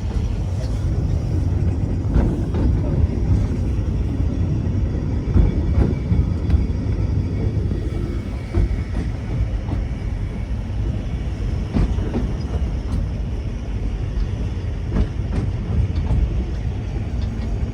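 Great Orme Tramway cable-hauled tramcar running on its track: a steady low rumble with scattered short clicks and knocks.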